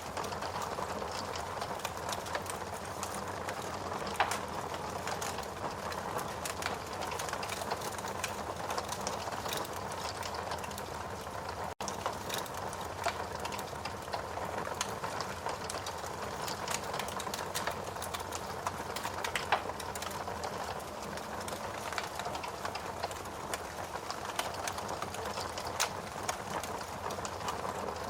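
Wood fire burning in a fireplace: a steady hiss of flames with frequent, irregular crackles and sharp pops from the burning logs, a few pops louder than the rest. The sound drops out for an instant near the middle.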